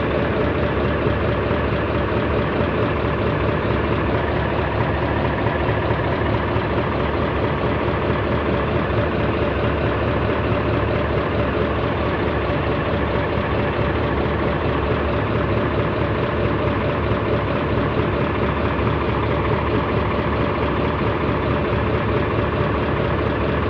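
Heavy diesel engine running steadily at an even speed, with no change in pitch.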